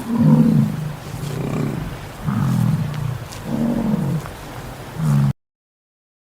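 Lion roaring: a series of about five deep, grunting calls roughly a second apart, the first the loudest, cut off suddenly about five seconds in.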